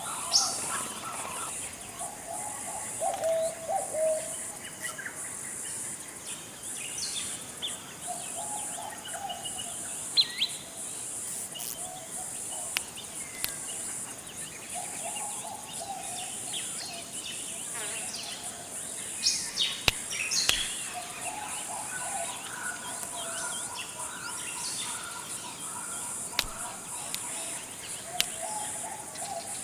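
Forest ambience: a steady high-pitched insect drone under scattered bird calls, short sharp chirps and low warbling phrases repeated every few seconds.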